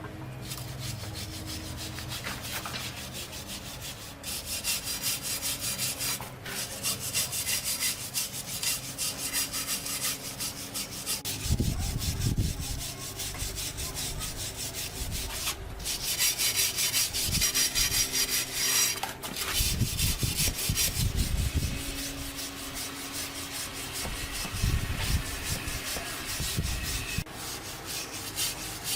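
Rapid back-and-forth rubbing strokes of an abrasive on a surface, as in hand sanding, coming in spells of several seconds with brief pauses. A few dull low thuds come in between.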